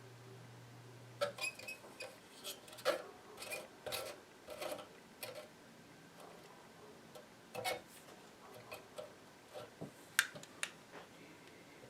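Scattered small clicks and taps of hand tools and wire leads being handled while a power transformer is wired into a radio chassis: a dozen or so sharp ticks at uneven intervals, with a faint low hum for the first second or two.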